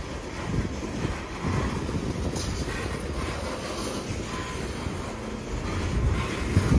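Coal train's hopper cars rolling past at trackside: a steady rumble of steel wheels on rail with occasional clacks, getting louder near the end.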